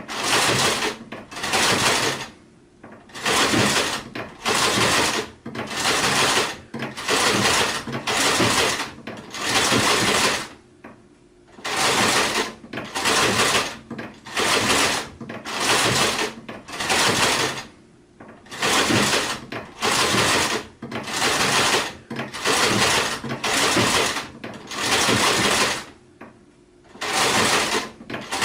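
Sewing machine stitching in short stop-start runs, each about half a second to a second long, roughly one a second, with a few longer pauses between runs.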